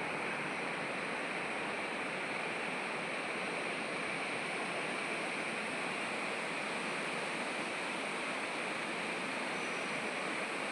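Water rushing steadily, an even hiss without breaks or changes.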